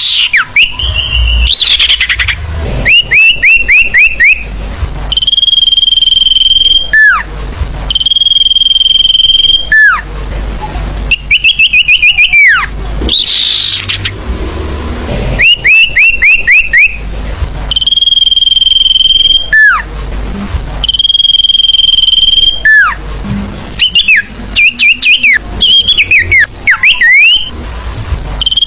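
Sirfu bird song played as a lure call, in a repeating phrase about every four to five seconds. Each phrase is a quick run of short falling chirps followed by one long steady high whistle that ends in a downward slur.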